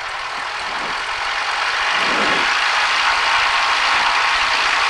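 Cessna 172's piston engine and propeller running up to 1700 rpm for the pre-takeoff run-up. It grows louder over the first couple of seconds, then holds a steady high-power drone.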